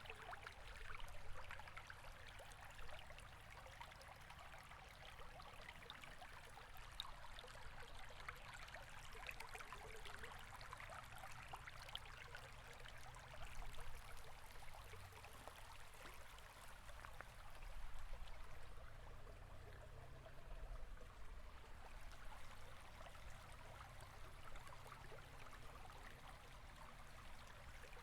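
River water flowing: a faint, steady rush with fine splashing and a low rumble, swelling briefly a few times.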